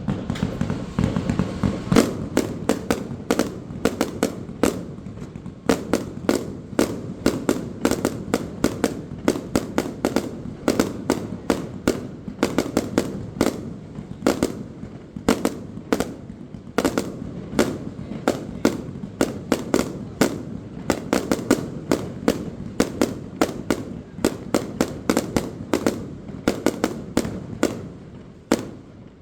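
Aerial fireworks bursting in a rapid barrage: sharp bangs and cracks, a few every second, over a continuous low rumble. The barrage starts abruptly and stops just before the end.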